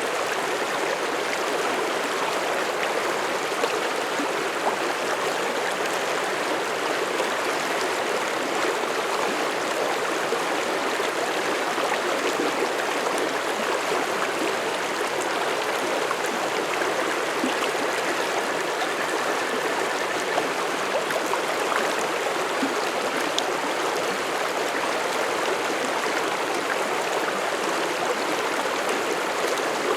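Mountain stream flowing over rocks, a steady rush of water with small splashes and gurgles.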